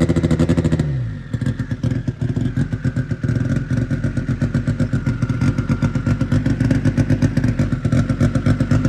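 Honda CRX four-cylinder engine running on E85, held at raised revs and then dropping to a steady idle about a second in. It is cold, with warm-up enrichment, and won't idle on its own just after being fired up, so it has to be kept running with a little throttle until it's happy.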